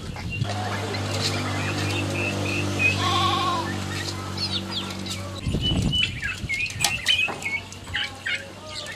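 A goat bleating with one quavering call about three seconds in, over a steady low hum that stops about five and a half seconds in. Short chirping bird calls and clicks fill the rest.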